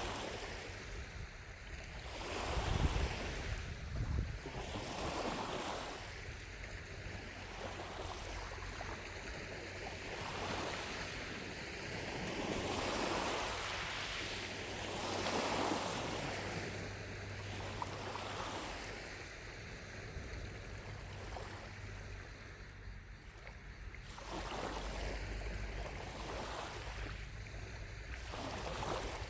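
Small lake waves lapping at the shore in soft, repeated washes, about one every one to two seconds.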